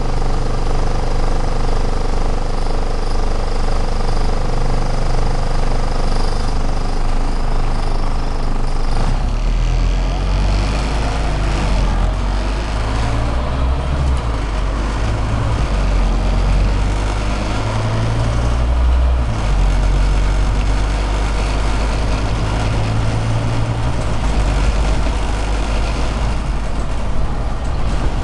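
Scania Omnicity city bus heard from inside while under way: the engine runs loudly and steadily, and its low drone shifts in steps several times as the bus speeds up and slows.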